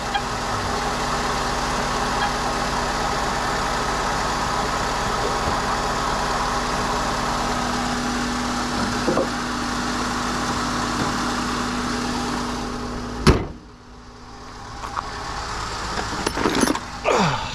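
Honda Odyssey 3.5 L V6 engine idling steadily on its new starter, then a single sharp slam about thirteen seconds in, after which the sound is much quieter.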